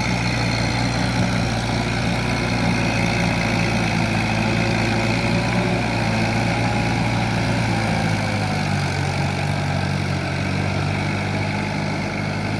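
Kubota M7040SU tractor's diesel engine running steadily, its low note shifting slightly about eight and a half seconds in.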